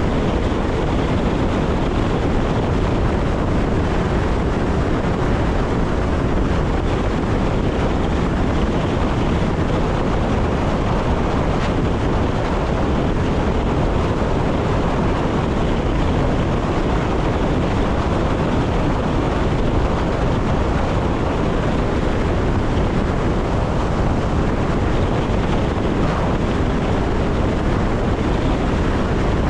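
Electric passenger train running steadily along the line: an even rumble of wheels on rails and rushing air, heaviest in the low end, with no change throughout.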